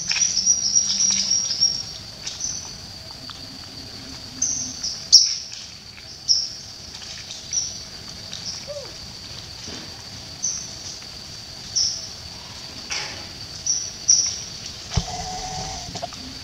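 Outdoor wildlife ambience: a bird gives short high chirps about once a second, in quick runs at the start, over a steady high insect hum. Near the end there is a brief louder rustle with a lower call.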